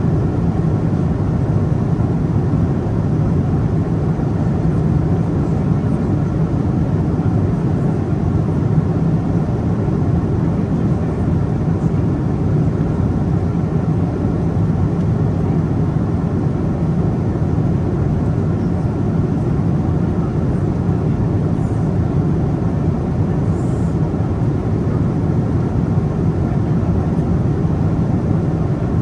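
Steady low-pitched cabin noise of a Boeing 777-200ER at cruise: the even rush of airflow and the twin engines' hum, unchanging throughout.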